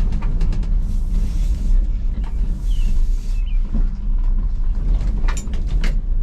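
1985 Ford F250 pickup running and rolling over rough ground: a steady low engine rumble with scattered rattles and knocks from the body. Two short hissing stretches come about a second in.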